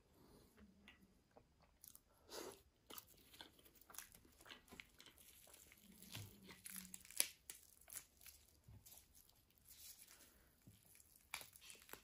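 Close-miked eating: crisp crunching as crunchy food is bitten and chewed, in irregular crackly snaps, the loudest about seven seconds in.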